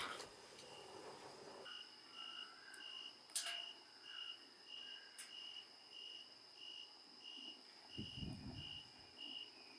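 Crickets chirping faintly: a steady high trill under an even chirp about twice a second, with a couple of sharp clicks from the burning fire.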